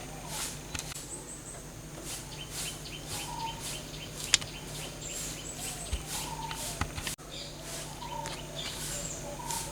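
Birds chirping in short calls, over brief irregular hissing strokes and a low steady hum, with one sharp click about four seconds in.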